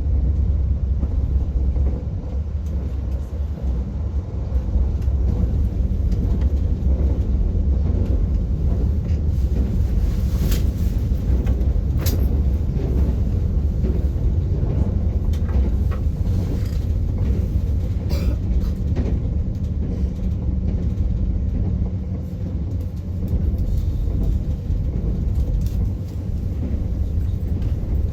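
Passenger train running, heard from inside the carriage: a steady low rumble with a few sharp clicks scattered through it.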